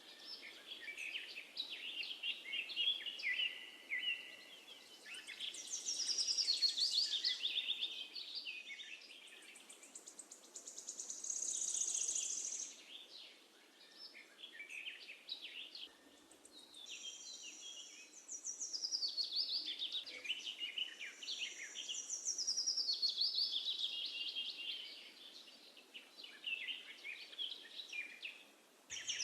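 Songbird singing in repeated phrases of rapid trills and falling runs, a few seconds apart, over a faint steady hiss.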